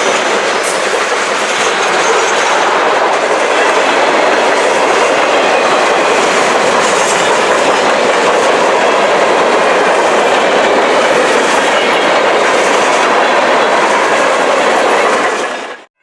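A train rolling past close by: steady, loud noise of wheels running on the rails, cutting off suddenly near the end.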